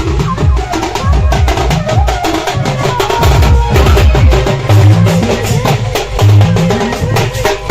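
Loud music with fast, dense drum beats and heavy bass, played through a large DJ sound system.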